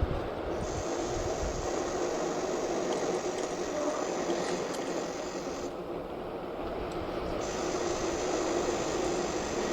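Wind and road noise from an e-bike coasting downhill at speed: a steady rushing hiss, with a heavier low rumble in the first second or so.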